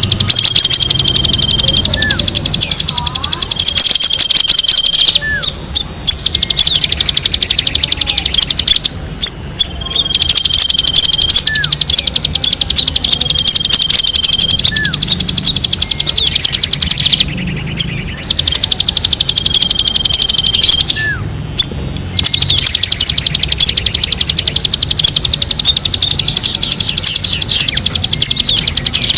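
Songbirds calling: a loud, very fast, high-pitched chattering trill, broken by held high whistled notes and short rising chirps, with a few brief pauses.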